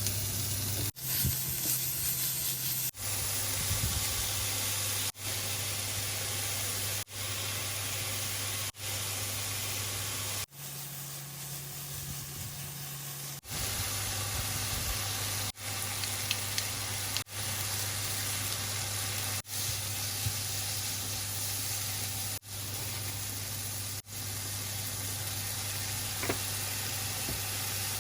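Cicadas droning in a steady, hissing chorus with a low hum beneath it, broken by brief dips every two seconds or so.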